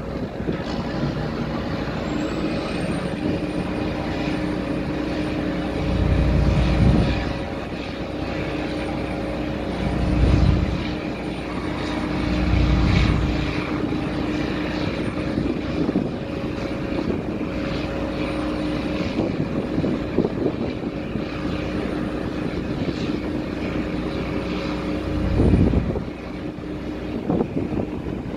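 Steady drone of a ship's engines and machinery, with wind buffeting the microphone in a few short gusts.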